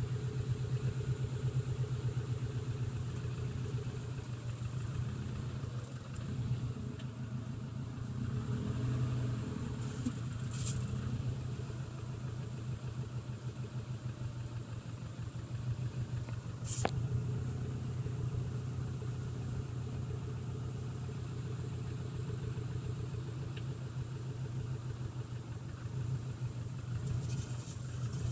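Subaru Legacy 2.5 GT's turbocharged flat-four engine idling steadily in reverse, with two sharp clicks about 11 and 17 seconds in. The owner thinks a noise from it comes from a resurfaced flywheel, but is not sure.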